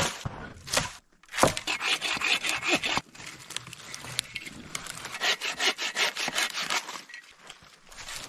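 Papery bark being scraped and rubbed off a dead paper birch, in two runs of quick, rasping strokes.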